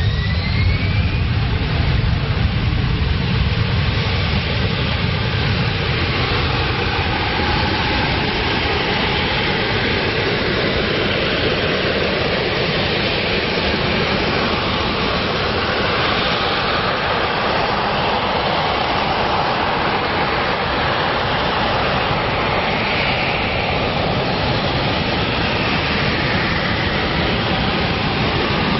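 Fighter jet engine running at high power, a loud steady jet noise with a whine that rises in pitch right at the start.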